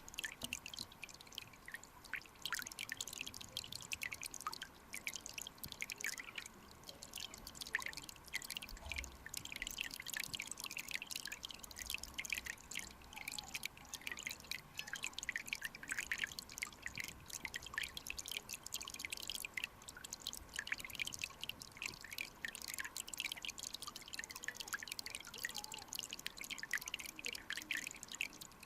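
Shallow mountain stream flowing and trickling, heard as a dense, irregular patter of small drips and bubble pops.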